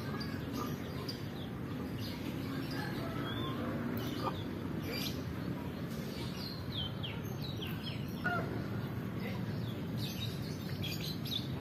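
Small birds chirping in short, scattered high notes, some of them quick falling calls, over a steady low background noise.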